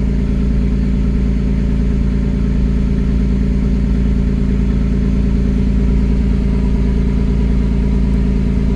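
An engine running steadily: a deep, even drone that holds the same pitch throughout.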